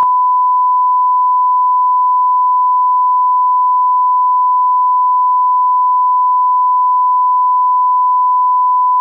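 Steady 1 kHz electronic test tone, a single pure beep that starts abruptly out of silence and holds at one unchanging pitch.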